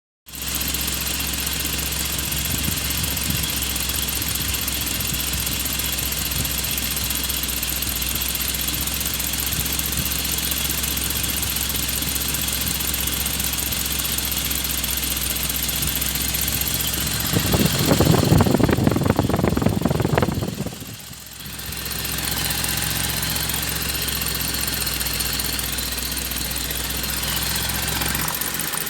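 Toyota HiAce 2.7-litre four-cylinder engine idling steadily. About two-thirds of the way through it gets louder for about three seconds, then dips briefly and settles back to idle.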